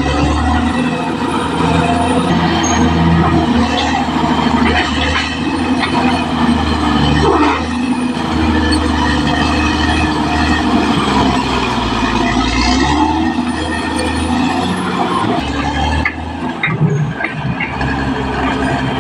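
Caterpillar D6R XL crawler bulldozer working: its diesel engine running steadily under load, with the clank and rumble of its steel tracks.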